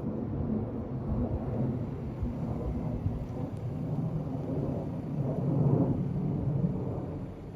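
Jet airliner's engines giving a low, rumbling roar that swells to its loudest about six seconds in.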